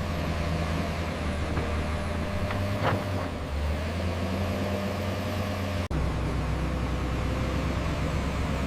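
Heavy diesel construction machinery running steadily with a low engine drone. It breaks off for an instant about six seconds in and carries on with a slightly different tone.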